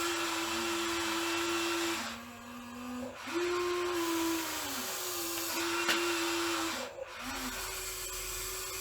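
Electric motor of a radio-controlled model construction machine whining as it works. The pitch steps down and back up about two seconds in, and the whine breaks off briefly around seven seconds, as the motor slows, stops and restarts with each movement.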